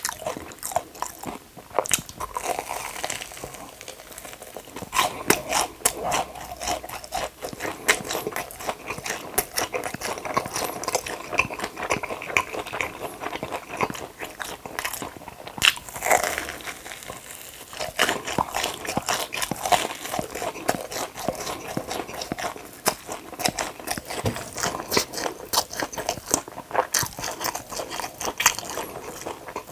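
Close-miked eating: a person biting and chewing crunchy food, a steady stream of crisp crunches and crackles with a couple of brief lulls.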